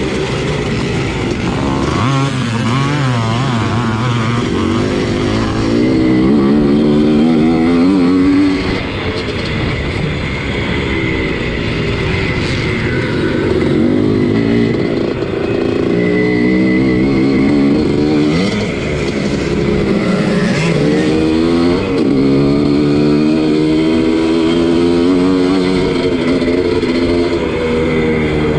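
Two-stroke motocross motorcycle engine racing, its pitch climbing hard and dropping back again and again as the throttle is worked through the track.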